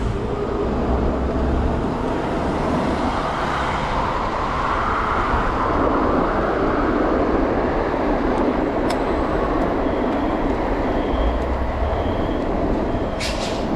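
Steady rush of wind on the microphone and street traffic while riding an e-bike through city streets, with heavier wind buffeting a little after the start and again near the end.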